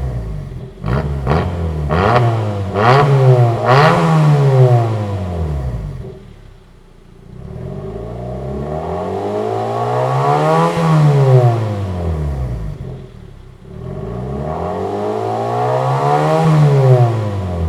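Hyundai i30's 2.0-litre Beta four-cylinder engine revved through an aftermarket variable exhaust with a sports resonator. It gives a run of quick throttle blips with sharp crackles between them, then two long revs that climb and fall back.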